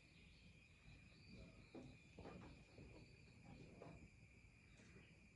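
Near silence: a faint, steady, high-pitched insect chirring, with a few faint soft handling sounds between about one and a half and four seconds in.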